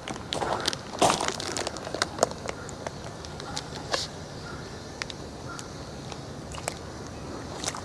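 Plastic poultry shrink bag crinkling and crackling as it is handled, in scattered short crackles and clicks that are busiest in the first couple of seconds and thin out after.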